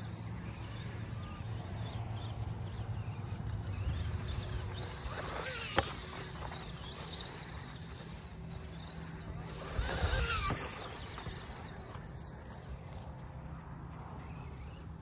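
Small electric motor and gears of a 1/24-scale RC truck running laps in sand, with a steady hum, a sharp click about six seconds in, and a short louder rev with rising pitch about ten seconds in.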